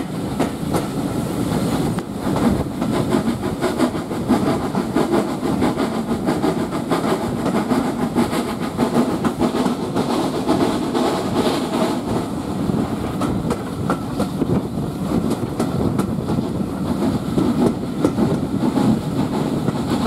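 Steam-hauled passenger train, pulled by LSWR S15 4-6-0 No 506, running steadily, heard from a carriage window. The carriage wheels clatter over the rails in a continuous rapid rattle.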